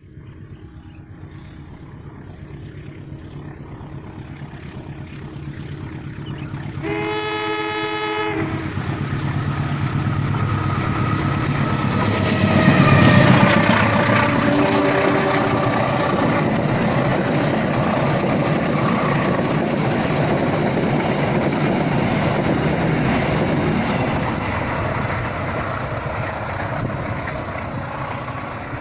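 Passenger train approaching and passing: the locomotive horn sounds one blast about seven seconds in, the train grows loudest around thirteen seconds as the locomotive goes by, a second short horn note follows soon after, and the carriages then run past steadily.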